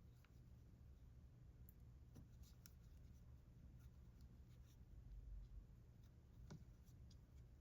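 Near silence, with faint, scattered light clicks and rubbing from a crochet hook working yarn as single crochet stitches are made.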